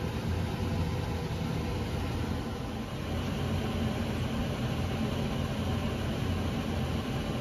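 Motorhome engine running with a steady low hum.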